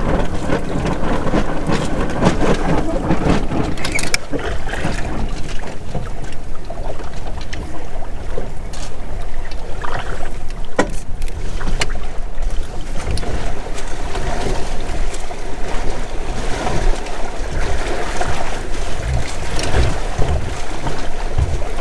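Wind rumbling on the microphone over water splashing along the hull of a Windrider 17 trimaran under sail, with a few sharp knocks.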